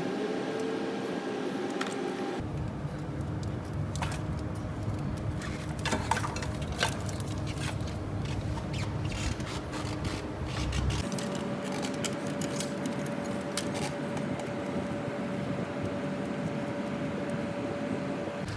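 Metal hand tools and engine parts clinking and scraping in scattered sharp clicks, heaviest in the first half, over a steady background hum.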